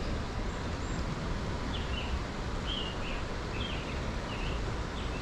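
A songbird calling in a short series of about six quick chirps, over a steady outdoor background hiss.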